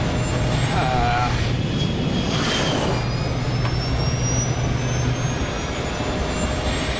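Airbus A320 jet engines running loud during the landing roll, with one engine in reverse thrust. A steady low hum sits under a high whine that slowly rises.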